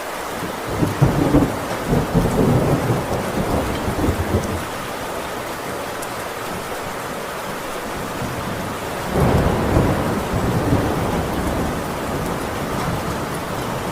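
Heavy rain falling steadily on a tin roof, with two rolls of thunder: a long rumble starting about a second in, and a shorter one a little past the middle.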